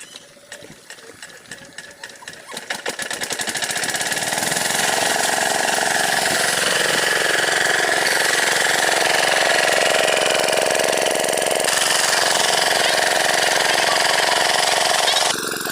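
Single-cylinder diesel engine of an 8 HP water pump set picking up speed, its beats coming faster over the first few seconds, then running steady and loud. The level drops suddenly just before the end.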